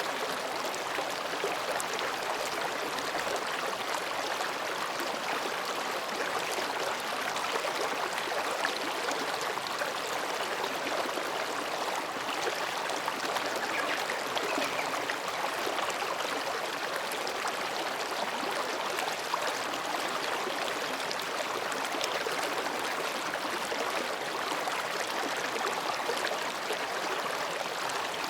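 Mountain stream babbling steadily as it flows between rocks, an even rushing without pauses.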